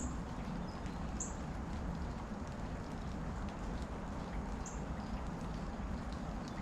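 Steady rain falling, with scattered drops ticking, and a bird giving three short, very high chirps.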